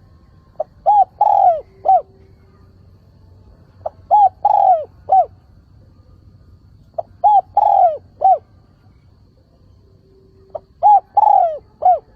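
Male spotted dove singing its cooing song: four phrases about three seconds apart, each a short lead-in note followed by three or four coos, the longest coo falling in pitch.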